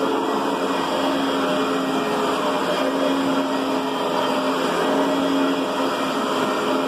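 Riccar Brilliance canister vacuum cleaner running steadily, an even rushing drone with a held low hum under it.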